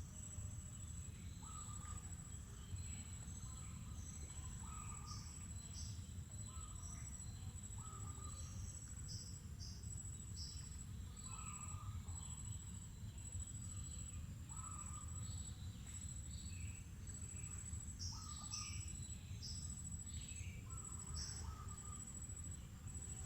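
Faint nature ambience: birds calling in short, repeated notes, some lower and some high and thin, scattered throughout. Under them runs a steady high-pitched insect trill that pulses evenly, over a low background rumble.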